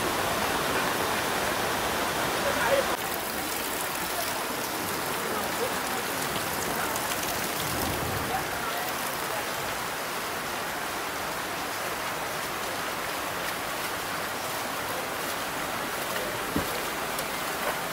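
Heavy rain falling steadily. About three seconds in it changes to an even rush of rainwater running ankle-deep along a flooded floor.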